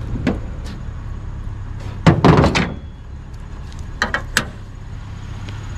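Several sharp knocks and one heavier thud about two seconds in, over a steady low hum.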